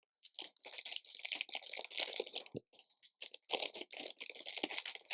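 Hands rummaging through loose plastic LEGO pieces and their bags: a dense rattling and clicking with crinkling plastic, broken by a brief lull about halfway through.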